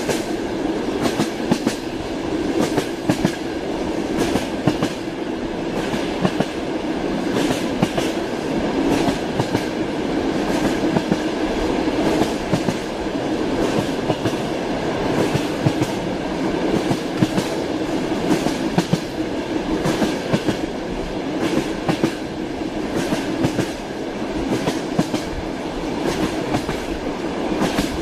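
Train running along the track: a steady rumble with the clickety-clack of wheels striking rail joints.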